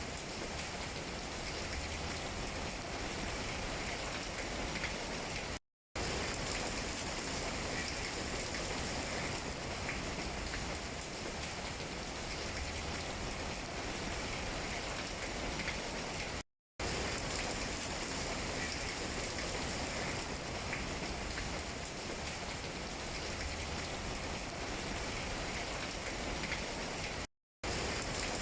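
Steady rain falling on tree leaves, an even hiss with faint scattered drop taps. The sound cuts out completely for a split second three times, about every eleven seconds.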